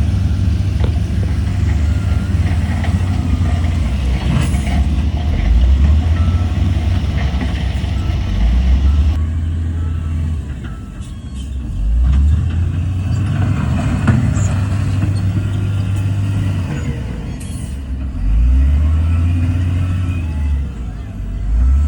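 Heavy diesel engine of earthmoving equipment running under changing load, its low drone rising and falling in pitch, easing off briefly about halfway through before picking up again.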